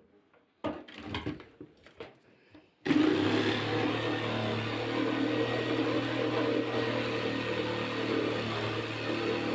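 A few short knocks and handling sounds, then about three seconds in an electric power tool's motor starts abruptly and runs steadily at a constant pitch.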